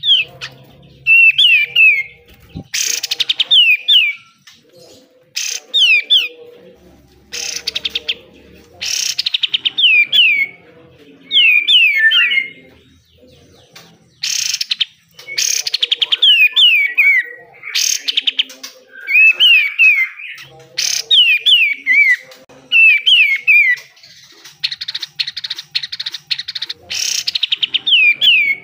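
A kapas tembak (katem) songbird singing: strings of short, sharply down-slurred whistled chirps, broken every few seconds by harsh, fast buzzy rattles (the 'besetan'), the longest of them near the end.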